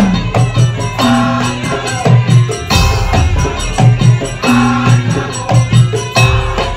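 Madurese daul (tongtong) music: a percussion ensemble of drums and struck instruments playing a fast, even rhythm, with a held melody line over it.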